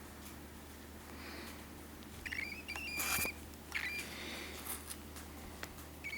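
Soft scratching and rustling from pet birds, with a few short, high squeaky chirps around the middle.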